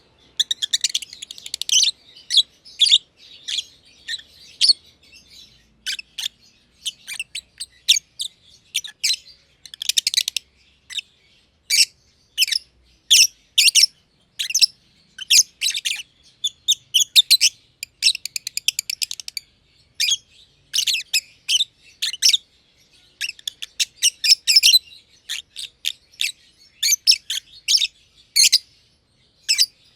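Masked lovebirds (Agapornis personatus) chirping almost without pause: a dense run of short, shrill high-pitched chirps, broken by a few fast rattling trills.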